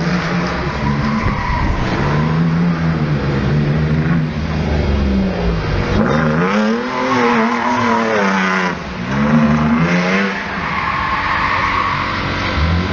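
Mercedes 190E's 3.6-litre AMG M104 straight-six revving up and down again and again while drifting, with tyres squealing and skidding underneath.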